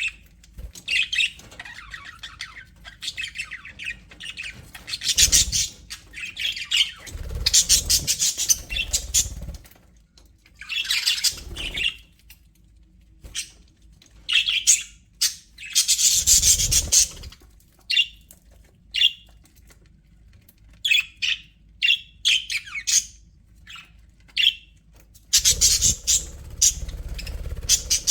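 Budgerigars chirping and warbling in repeated bursts of quick, high calls, separated by short pauses.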